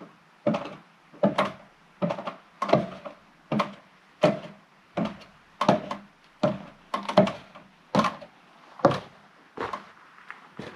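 Footsteps on a temporary wooden staircase: a steady series of wooden thuds, about one every 0.7 seconds, each ringing briefly.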